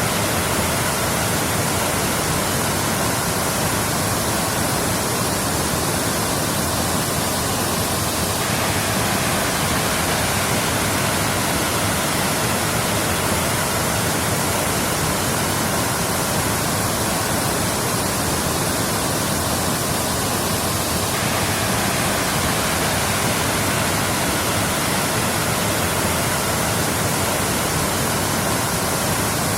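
Waterfall: a steady, even rush of falling water, with a slight shift in tone about eight seconds in and again about twenty-one seconds in.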